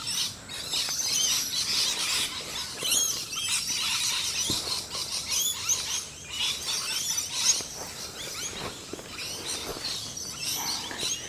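Birdsong: many short chirps and warbling calls from several birds at once, dense and continuous.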